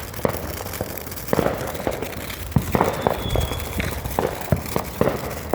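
Consumer fireworks going off: an irregular string of sharp bangs and cracks, with a brief high whistle about three seconds in.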